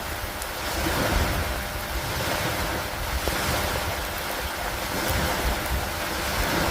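Steady rainfall hiss over a low, fluttering rumble, swelling and easing every couple of seconds.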